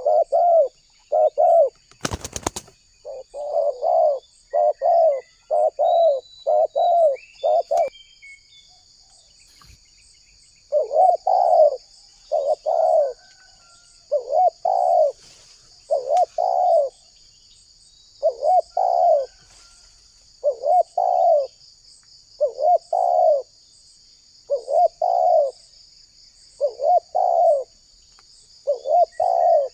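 Spotted dove (tekukur) cooing over and over: quick runs of coos for the first eight seconds, a short pause, then coos in groups about every two seconds. A steady high insect buzz runs behind it, and there is one sharp click about two seconds in.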